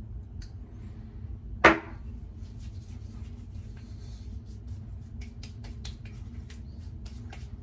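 A single sharp knock about two seconds in, a hard object set or struck against a hard surface, among faint clicks of handling, over a low steady hum.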